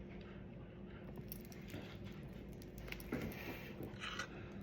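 Faint eating sounds: scattered small clicks and clinks, heaviest about one second in and again near the end, like utensils on a dish.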